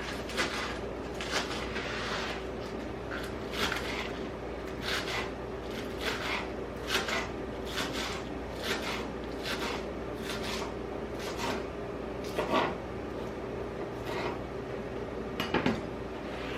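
Kitchen knife chopping vegetables on a cutting board: a series of short knocks at an uneven pace, about one a second.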